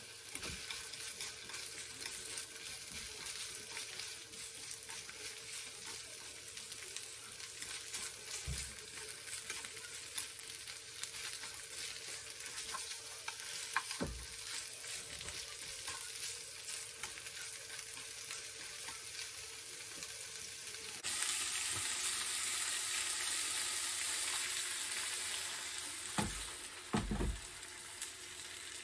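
Sliced hachiku bamboo shoots sizzling in hot oil in a frying pan as they are stirred with wooden chopsticks, with a few short knocks along the way. About two-thirds through, the sizzle gets louder.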